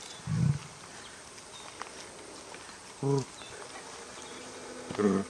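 Emu giving three short, low grunts: one at the start, one about three seconds in and one near the end.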